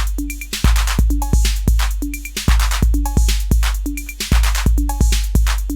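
Acidlab Miami, a clone of the Roland TR-808 drum machine, playing a looping beat. Long, deep bass drum hits and noisy hits repeat with short pitched mid-conga notes.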